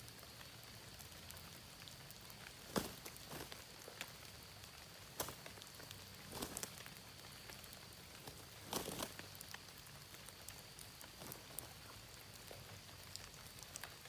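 Water dripping after rain: a few scattered, sharp drops tapping onto leaves several seconds apart, over a faint steady hiss and a faint high steady tone.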